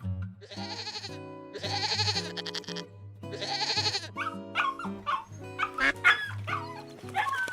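Animal calls over background music: three long wavering calls in the first half, then a quick run of short, sharply gliding calls.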